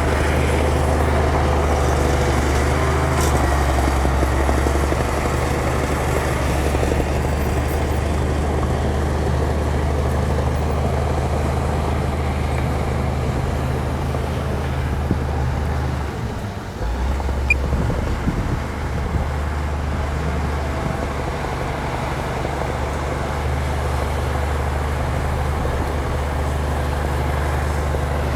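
Heavy diesel engine of a bulldozer running steadily under load, with a low, even hum. About two-thirds of the way through it briefly eases off, and a few short clanks are heard before it settles back to the same steady note.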